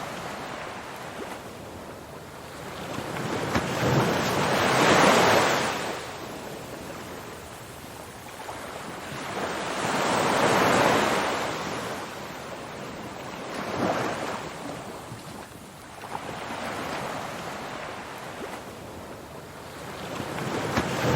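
Ocean waves washing in, a rushing noise that swells and fades every few seconds, loudest around five and ten seconds in.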